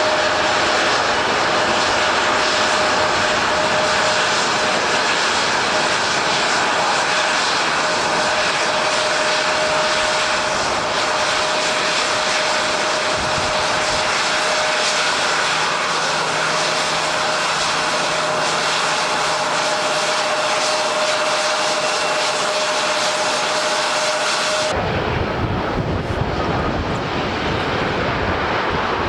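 Airliner engines running with one steady whine over a broad rush. About three-quarters of the way through, the sound cuts off abruptly to a plain rush of wind and rain.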